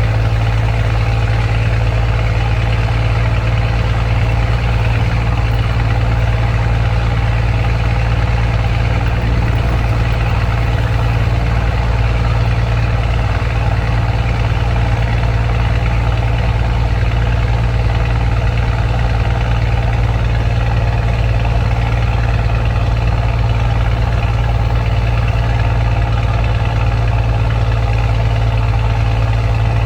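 Scania truck diesel engine with an open, straight-through exhaust, running at a steady, unchanging engine speed with a deep, even drone.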